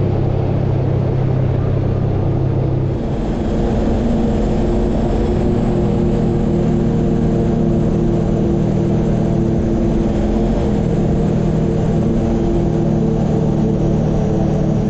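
Kawasaki KRX 4 side-by-side's engine running steadily under way, its drone stepping up in pitch about three seconds in as it gathers speed.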